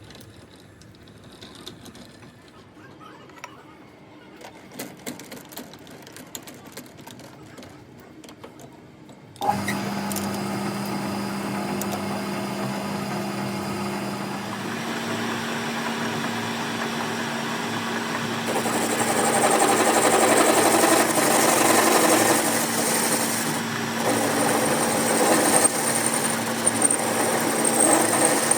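Light clicks and knocks of metal parts being handled. About a third of the way in, an electric workshop machine starts abruptly and runs steadily with a low hum. About halfway through it gets louder and a high whine comes in.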